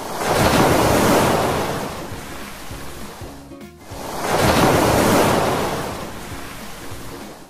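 Ocean waves washing in twice, each surge building and fading over about three seconds, over soft background music.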